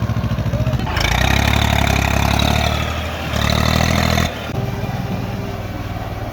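Tractor engines running, with a louder stretch about a second in that lasts about three seconds, then cuts off sharply and drops back to a steady running sound.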